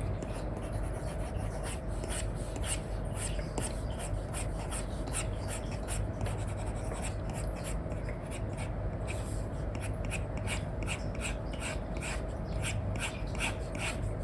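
Apple Pencil 2 with an Elecom nib scratching across a paper-like screen protector on an iPad in short, quick repeated strokes, about two a second, over a steady low hum.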